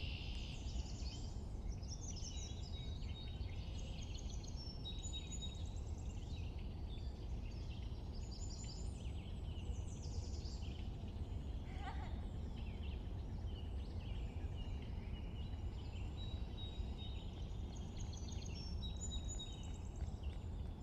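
Small songbirds singing in a dawn-chorus mix of quick high chirps and trills, over a steady low background rumble. About halfway through, one lower call stands out from the song.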